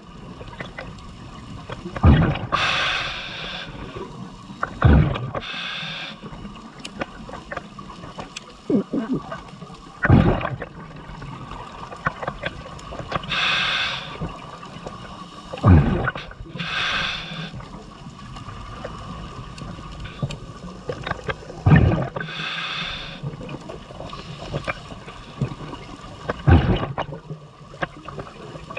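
Scuba diver breathing through a regulator underwater: a series of hissing inhalations and bursts of exhaled bubbles, one breath every five or six seconds.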